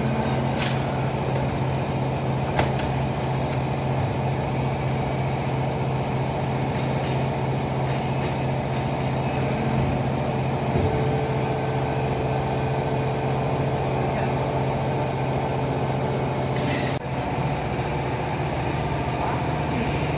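Automatic baler running: a steady machine hum throughout, with a few sharp metallic knocks, two near the start and one shortly before the end.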